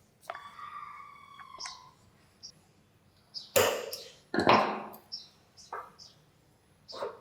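Hand work on old metal fan parts: a metal piece rings briefly after a strike, then come two loud rasping strokes and a few light clicks and knocks.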